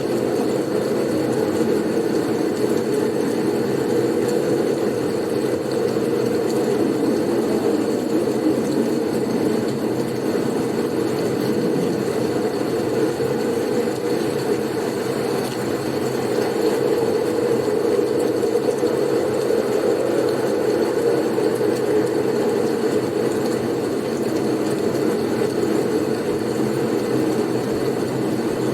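Steady blizzard wind noise: a low, even rush of wind that barely changes in level, with a faint high steady tone above it.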